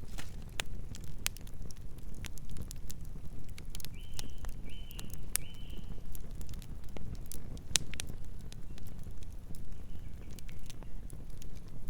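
Campfire crackling: scattered sharp pops and snaps over a low steady rumble. About four seconds in, three short high chirps come in quick succession.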